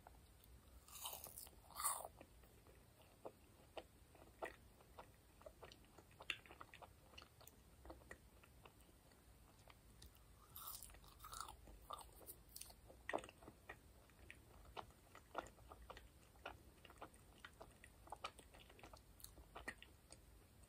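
Marshmallows being bitten and chewed close to the microphone: two louder bites, about a second in and again about ten seconds in, with quiet chewing and many small mouth clicks between them.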